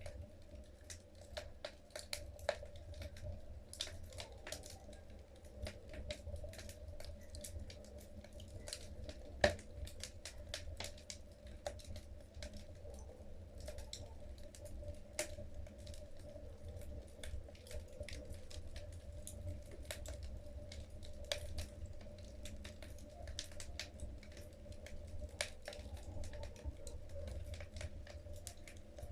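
Wood fire burning in a fireplace: logs crackling with irregular sharp pops, one louder pop about nine and a half seconds in, over a steady low background sound.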